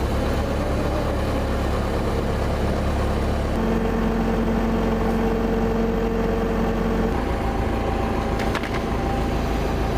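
An engine running steadily, with a low hum whose note shifts abruptly twice, about a third and two thirds of the way through.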